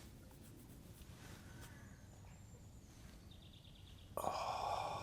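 Wild birds calling: faint scattered calls, then a loud call starts suddenly about four seconds in.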